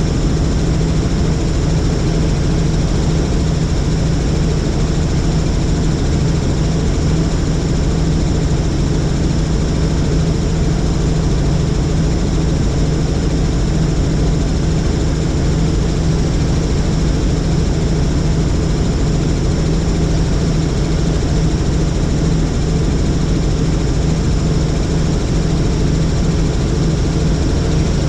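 Helicopter in steady flight: a loud, unchanging engine and rotor drone with a strong low hum.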